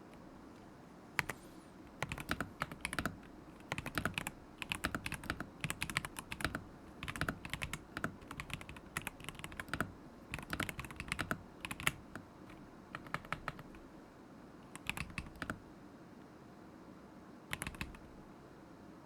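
Typing on a KZZI K75 Pro mechanical keyboard with Moment linear switches: runs of quick key clacks in bursts, pausing briefly now and then, thinning out in the last few seconds.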